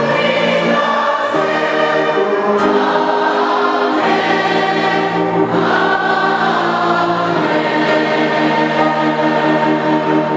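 A choir singing a slow hymn, moving through long held chords.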